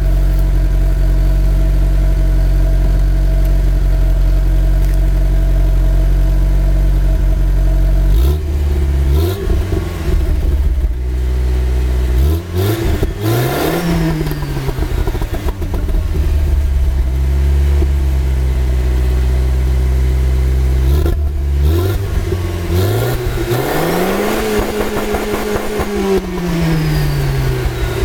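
Volkswagen Passat B3's 1.8 RP four-cylinder petrol engine heard through its exhaust, idling steadily and then free-revved. A short blip comes about eight seconds in and a bigger rise and fall comes around thirteen seconds. Near the end a long rev is held high for a second or two before it drops back toward idle.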